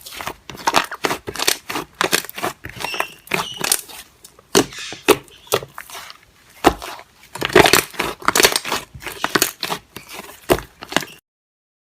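Dense, irregular crackling and crunching noises, many sharp clicks in quick succession, that cut off abruptly near the end.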